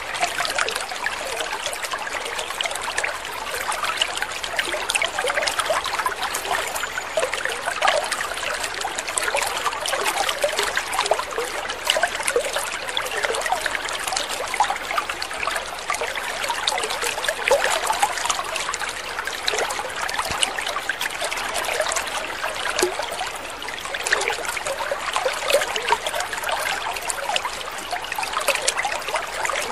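Water trickling and babbling steadily, a continuous patter of many small splashes with no pauses.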